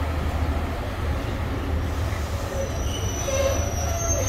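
A first-generation diesel multiple unit rolls into the platform with a steady low diesel rumble. About two and a half seconds in, a high-pitched squeal sets in from the running gear as it brakes to a stop.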